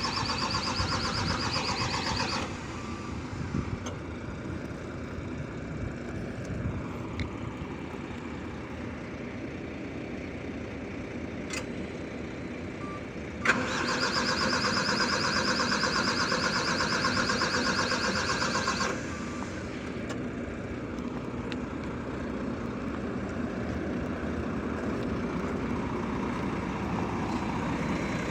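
Excavator's diesel engine running steadily, with a loud fast metallic rattle for the first two seconds or so and again from about 13 to 19 seconds in, and a sharp click as the second rattle begins.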